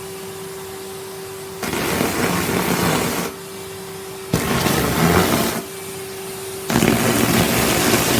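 Henry vacuum cleaner running with a steady hum, broken three times by loud rushes of sucking as the nozzle pulls up debris from the floor: about a second and a half in, about four and a half seconds in, and again near the end. The owner thinks the bag sounds a bit full.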